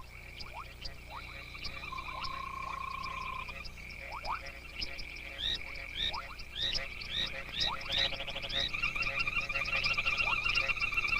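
A mating chorus of frogs: several kinds calling over one another, a steady high trill with a lower held note, many short rising chirps, and a louder, fast-pulsing trill that joins about three-quarters of the way through.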